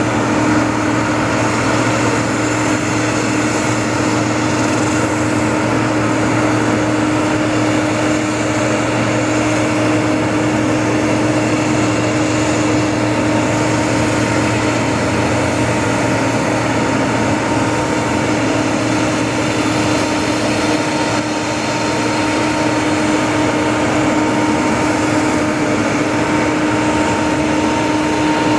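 Steady whine and rushing hum of a Boeing 777-200 airliner's machinery on the ramp, unchanging in pitch and level throughout.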